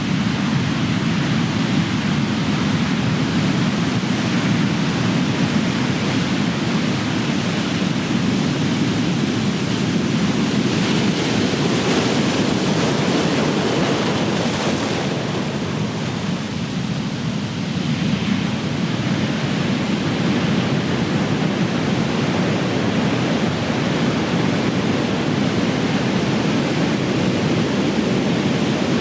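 Ocean surf: big waves breaking and rushing onto the shore in a continuous wash, with one break swelling louder and brighter about ten seconds in before easing off briefly.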